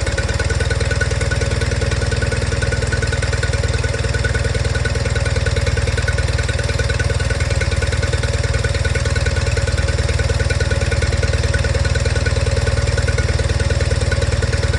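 1992 John Deere 318 garden tractor's air-cooled twin-cylinder Onan engine running steadily with an even, rapid pulse, warming up from a cold start at about 0 °F.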